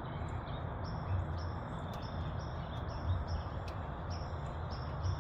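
A bird's short, high chirps repeating about three times a second over a steady low rumble of background noise.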